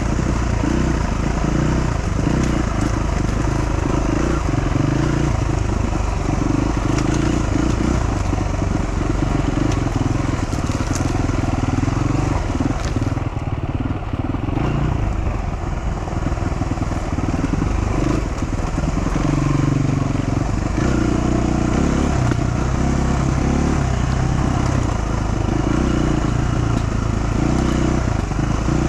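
Dual-sport motorcycle engine running under way, its pitch shifting up and down with the throttle, over steady wind and tyre noise.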